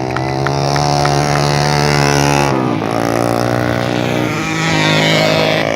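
Racing motorcycle engines running at high revs. The note drops sharply about two and a half seconds in, then holds steady again.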